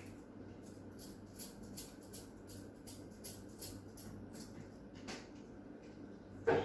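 Small metal tools handling a watch, making light irregular clicks and taps, with one louder knock near the end, over a steady low hum.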